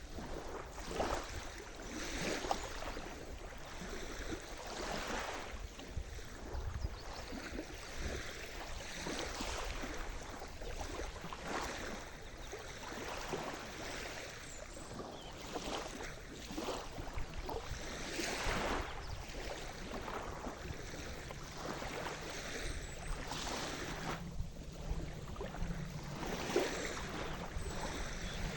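Sea surf: small waves washing and breaking on the shore one after another, a steady hiss of water with repeated swells.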